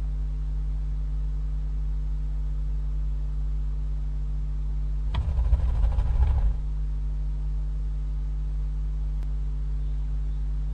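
Steady low hum, broken about five seconds in by one harsh, hissing barn owl screech lasting just over a second.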